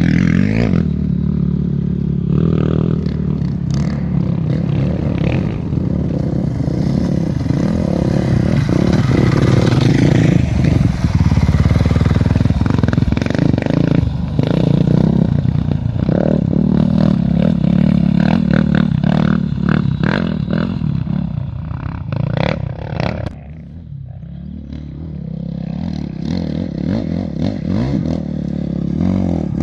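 A vehicle engine running loudly and continuously, with clatter over it. It drops away suddenly near the end, then builds again with a rising pitch.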